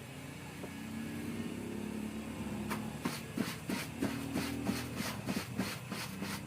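Laundry being scrubbed by hand, with short rubbing strokes of wet fabric about two to three a second from about 3 s in, over a steady low hum.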